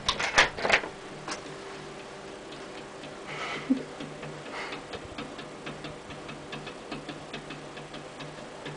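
A few loud knocks or rattles in the first second, then a run of faint, quick ticks at about three a second.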